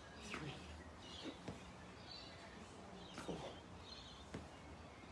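Faint outdoor background with birds chirping now and then, and a few brief soft noises.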